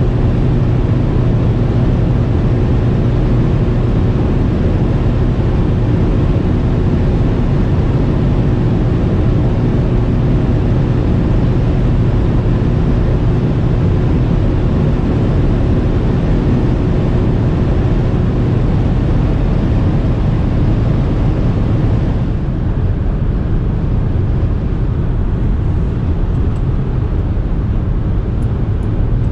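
Audi SQ5 3.0 TDI V6 diesel at high autobahn speed: a steady, loud drone of engine, tyres and wind. About 22 seconds in the noise drops a step and loses much of its hiss.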